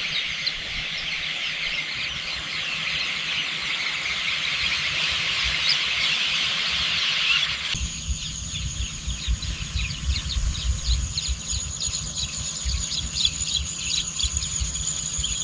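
Outdoor nature ambience: a dense chorus of many small high chirping calls. About halfway through it changes abruptly to a steady thin high whine with rapid repeated chirps over a low rumble, then cuts off at the end.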